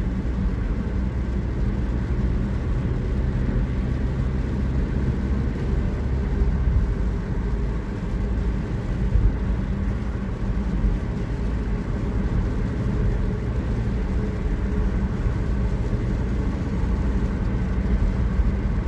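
Car engine and road noise heard from inside the cabin while driving: a steady low hum with no changes in pace.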